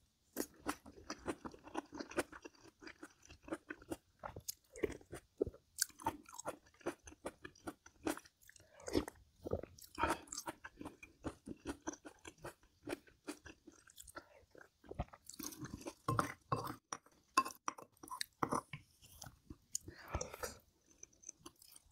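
Close-miked eating: a person chewing food, with frequent irregular crunches and wet mouth clicks.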